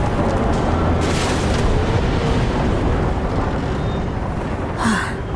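Deep, continuous rumble of tornado wind, with a brief sharper noise about five seconds in.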